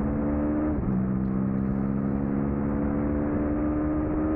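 2003 Suzuki SV650's 90-degree V-twin engine under hard acceleration, its pitch climbing steadily, with a quick upshift about a second in where the pitch drops and then climbs again.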